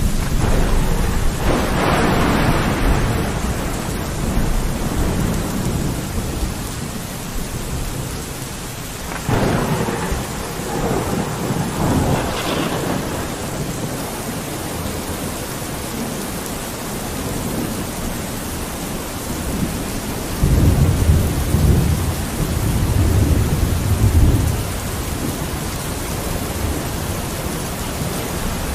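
Steady rain falling on a window, with rolls of thunder about two seconds in and again around ten seconds in, and a deep low rumble of thunder near the end.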